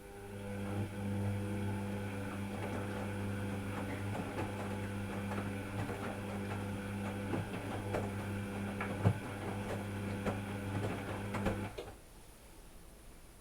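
Washing machine running: a steady motor hum with scattered clicks and rattles, cutting off suddenly near the end.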